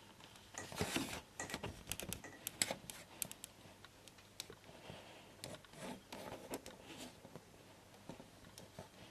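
Plastic model kit sprues being handled: irregular light clicks and taps of hard plastic, with a brief rustle about a second in.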